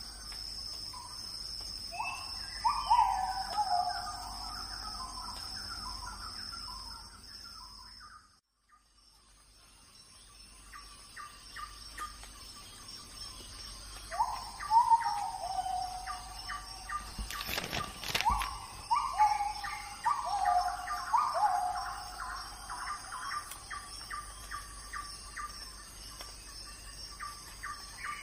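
Birds calling in a nature ambience: repeated whistled notes that slide downward, over a steady high-pitched background. The sound fades out about eight seconds in and comes back a couple of seconds later.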